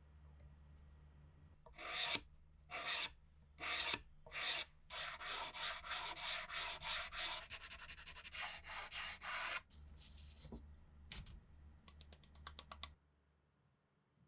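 Hand-worked abrasive strokes rubbing on a Mauser K98 rifle part: a few separate strokes, then a quick run of about two or three strokes a second, growing lighter and faster before stopping suddenly.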